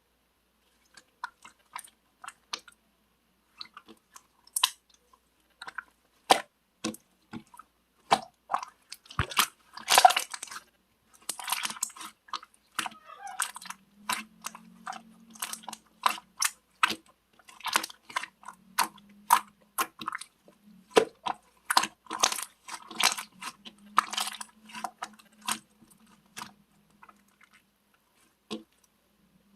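Slime being squeezed, stretched and poked, making irregular wet clicks and pops that come thicker from about a third of the way in.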